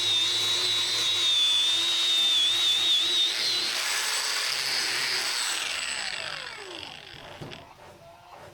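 Power tool motor running with a steady high whine, then switched off, its pitch falling as it spins down over the last couple of seconds.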